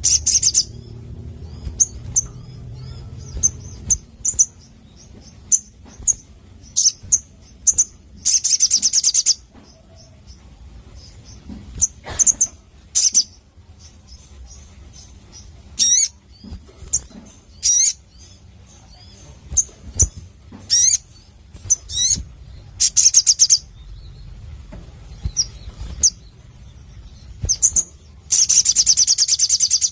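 Sogon sunbird calling: sharp, high chips scattered throughout, broken by several fast, buzzy trills, the longest and loudest near the end.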